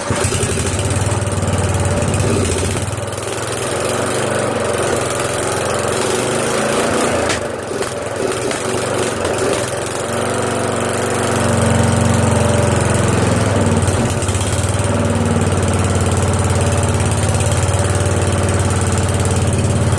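Briggs & Stratton 12.5 hp flathead single-cylinder mower engine running steadily just after starting, freshly swapped in; it gets a little louder from about eleven seconds in.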